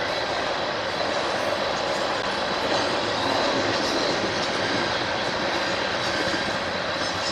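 A train rolling past on the tracks, with the steady rumble and rush of its wheels on the rails and a faint high ring over it.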